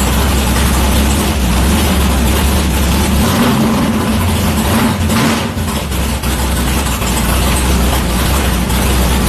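Big-block Ford V8 in a 1964 Fairlane drag car running steadily at idle, its note shifting briefly about halfway through.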